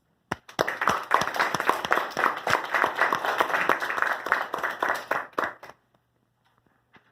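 Audience clapping at the end of a poem reading: a dense patter of hand claps that starts a moment in and dies away after about five and a half seconds.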